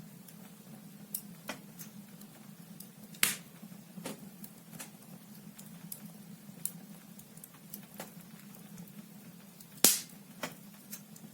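Logs burning in a fireplace, crackling with irregular sharp pops; two louder snaps come about three seconds in and near the end.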